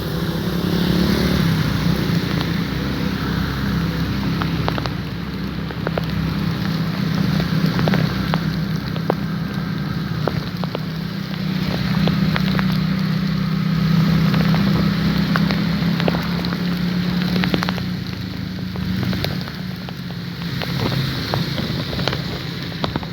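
Heavy rain falling, many sharp taps of drops striking a hard surface over a steady low rumble.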